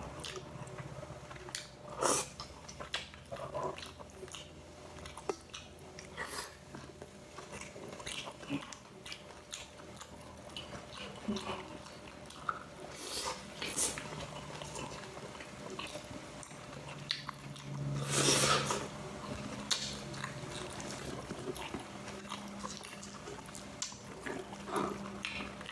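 A person eating close to the microphone: chewing and biting with scattered wet smacks and clicks, and a louder noisy stretch about two-thirds of the way through.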